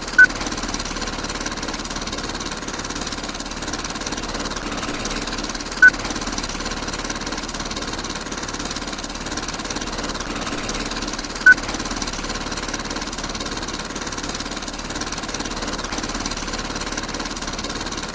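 A small motor running with a steady rapid rattle. Three short high beeps sound over it, evenly spaced about five and a half seconds apart.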